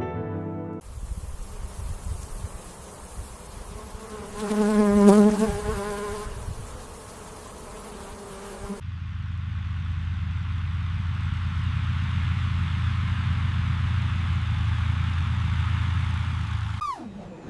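A flying insect buzzing close by for about two seconds, a wavering drone, over a steady hiss of outdoor ambience; about halfway through, the hiss gives way to a steady low hum.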